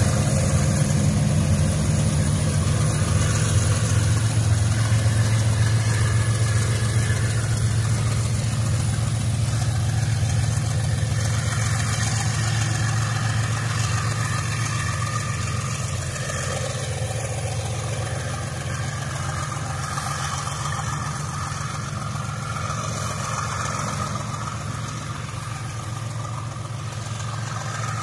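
Diesel-electric freight locomotives pass under power, their engines running loudly and then fading steadily as they move away, while the train's loaded hopper wagons roll past on the rails.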